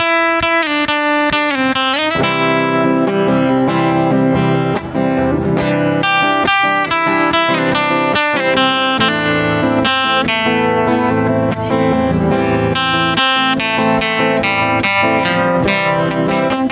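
Acoustic guitar playing an instrumental intro: a descending run of plucked notes that slides down in the first two seconds, then fuller strummed and picked chords.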